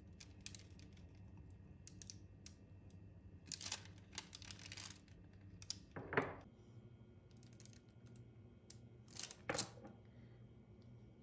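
Small handling noises: scattered light clicks and short rustles, with a brief louder knock about six seconds in and another short rustle near nine and a half seconds.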